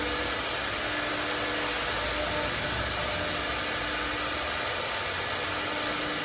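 4-axis CNC router running: a steady airy hiss with a faint, even hum underneath.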